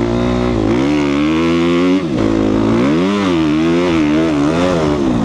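2014 Suzuki RM-Z250's single-cylinder four-stroke engine revving up and down as the dirt bike is ridden. The pitch climbs, drops sharply about two seconds in, then rises and falls again.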